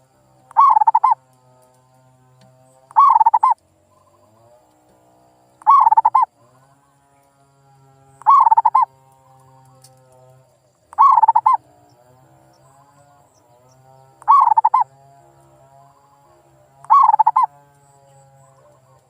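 Male zebra dove (perkutut) singing its cooing song: seven short, loud phrases about two and a half seconds apart, over a faint steady background.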